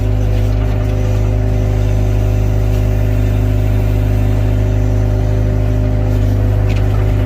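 Excavator's diesel engine running at a steady speed, a constant low drone with no knocks or clanks.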